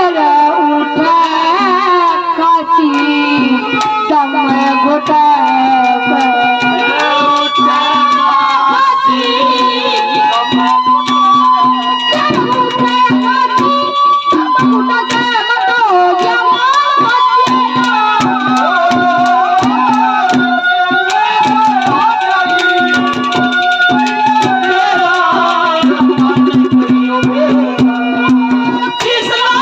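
Haryanvi ragni folk music: harmonium with a steady held low note and a busy, ornamented melody that glides and bends, over fast hand-drum strokes.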